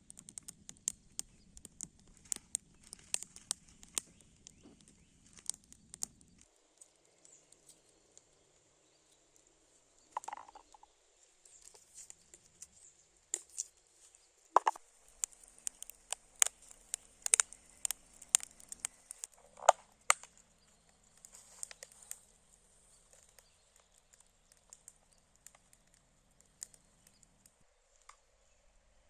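Irregular sharp crackles and pops over a faint steady hiss, from a wood fire and meat frying on a hot stone.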